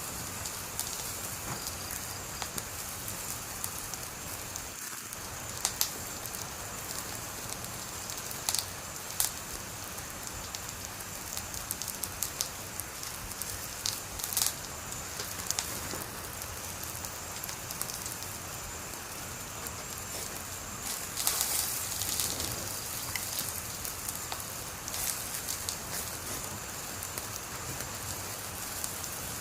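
Wood fire burning with a steady hiss and sharp crackles and pops scattered through it, with a denser run of pops about two-thirds of the way through.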